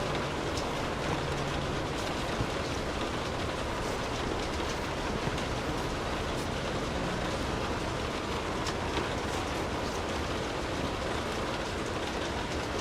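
Steady rainfall: an even hiss of rain with scattered sharper ticks of single drops.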